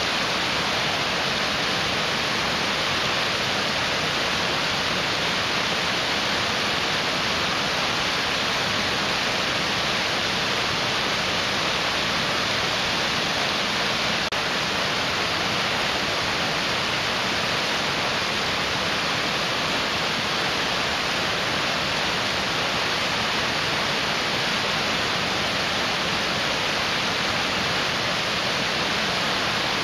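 Mountain stream rushing: a steady, unbroken rush of water with a bright, hissing character.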